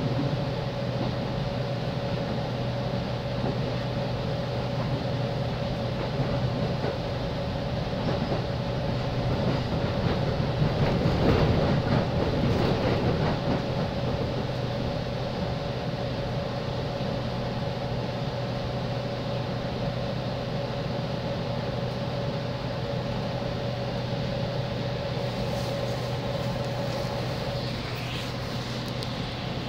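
Running sound inside a JR East 205 series electric commuter train car: a steady electrical hum under the rumble of wheels on rail. About halfway through comes a louder stretch of wheel clatter, and the sound eases slightly toward the end as the train runs into its terminal stop.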